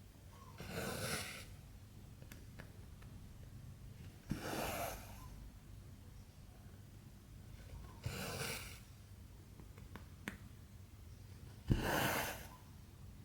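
Cotton embroidery thread drawn through 14-count cross-stitch fabric: four short swishes about every three and a half seconds, most opening with a sharp click as the needle goes through. Faint ticks of the needle fall between them.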